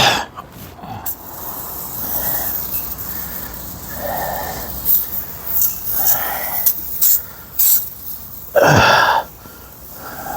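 Pressure washer jet spraying the underside of a car, the hiss changing in pitch and strength as the jet moves over the frame rails, with one loud burst near the end.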